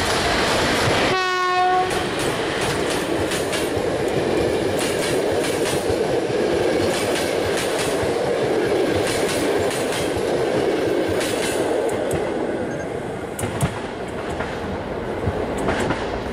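EP05 electric locomotive gives one short horn blast about a second in. Its passenger coaches then roll past with a steady wheel rumble and clicking over the rail joints, which eases near the end.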